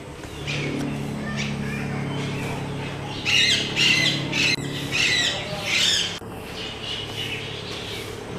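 Birds squawking: a run of loud, harsh squawks lasting about three seconds in the middle, over a steady low hum.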